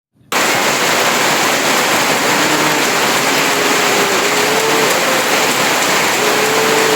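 Heavy rain falling steadily, starting a moment in, with faint long cattle moos under it from about two seconds in.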